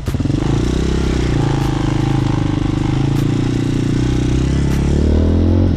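Hawk 250 dirt bike's single-cylinder four-stroke engine running under way, its note rising near the end as the throttle opens, with a few light knocks from the bike over rough ground.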